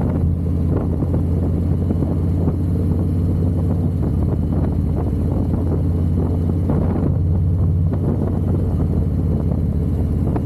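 Harley-Davidson motorcycle engine and exhaust running steadily under way, with an even low drone.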